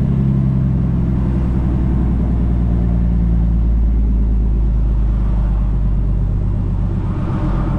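Truck's diesel engine running steadily, heard from inside the cab.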